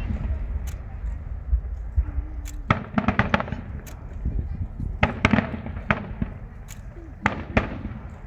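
Aerial fireworks going off over a steady low rumble, in three clusters of sharp bangs and crackling about two and a half seconds apart.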